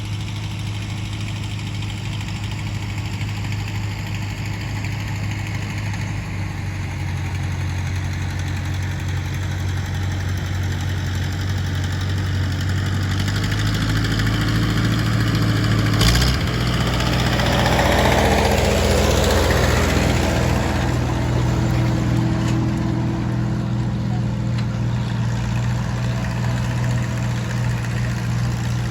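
Tractor engine running steadily, its note shifting slightly a couple of times. About halfway through there is a sharp click, followed by a few seconds of louder rushing noise over the engine.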